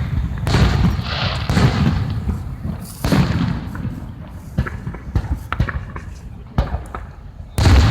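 Fireworks going off: a run of bangs and deep booms with short crackles between them, ending in a loud boom near the end.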